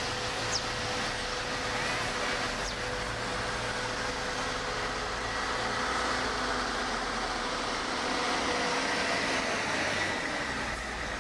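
Heavy earthmoving machinery's engine running steadily, with a faint steady whine over a broad rumble.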